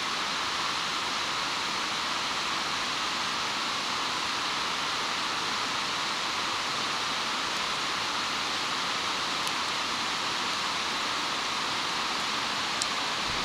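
Bonfire burning with a steady rushing hiss, with a couple of faint sharp pops in the second half.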